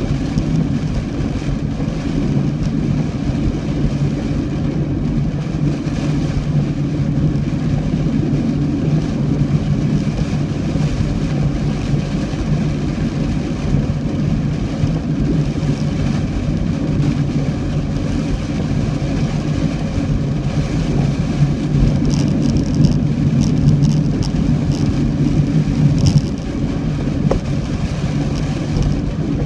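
A car driving steadily in heavy rain: a constant low engine and road drone with a hiss of rain over it.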